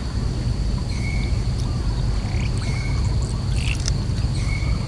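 Outdoor ambience: a steady low rumble under a thin, steady high-pitched insect drone, with about four short chirping animal calls scattered through it.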